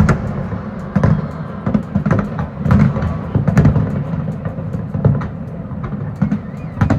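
Fireworks bursting in quick succession: deep booms roughly every second, with crackling in between.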